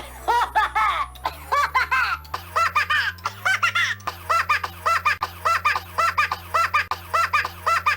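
A short, high-pitched, laugh-like voice snippet stuttered over and over in a fast rhythmic loop, about two to three repeats a second, over a low bass line that changes note about once a second: a YouTube Poop style remix.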